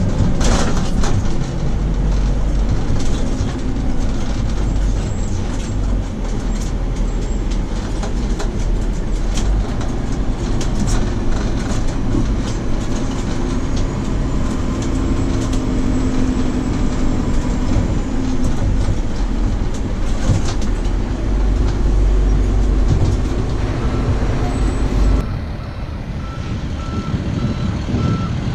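Fire truck's engine and road noise heard from aboard the moving truck, a steady loud rumble with knocks and rattles. Near the end the engine noise drops and the truck's reversing beeper starts, evenly pulsed beeps as it backs up.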